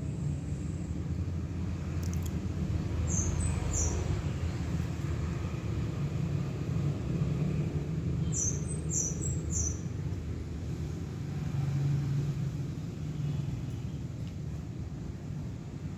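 Steady low rumble with short, high bird chirps over it: two chirps a few seconds in, then three in quick succession about halfway through.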